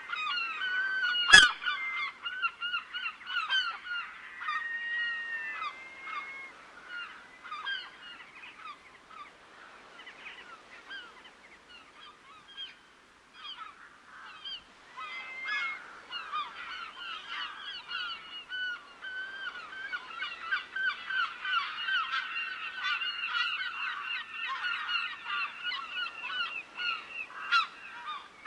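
A large flock of waterbirds calling continuously, many short overlapping honking calls, thinning out in the middle and building again toward the end. A single sharp click about a second and a half in.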